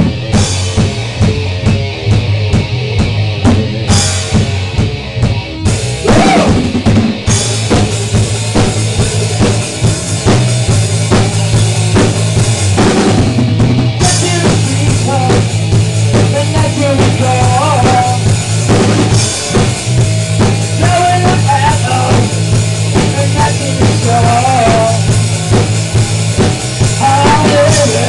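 Rock band playing live, the drum kit loudest with bass drum and snare hits over a steady bass line. A bending lead line comes in about halfway through.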